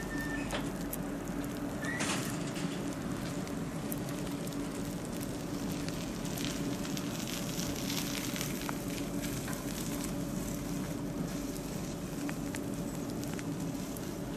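Double-deck regional train standing at the platform, its on-board equipment humming steadily on two tones, with a constant crackling hiss over it.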